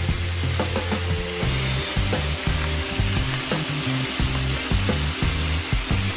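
Duck pieces with lemongrass sizzling in a hot wok as they are stir-fried, with a few short clicks of the utensil against the pan. A low hum that shifts in pitch runs underneath.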